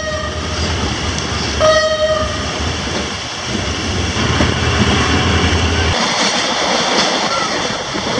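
Train horn sounding two short blasts: one ending just after the start, another about a second and a half in. Under it, the steady rumble of the carriage running along the track.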